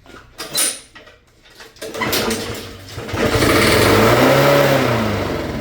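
Short hiss of starting fluid sprayed into the carburetor, then a Honda single-cylinder four-stroke lawnmower engine is pull-started. It catches on the fluid, revs up, then sags and winds down as the fluid burns off, much as a dirty carburetor would do.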